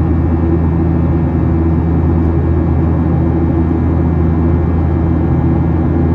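Steady cabin noise of a Boeing 737-800 climbing: a low, even hum from the CFM56-7B engines mixed with airflow rush, heard from inside the passenger cabin.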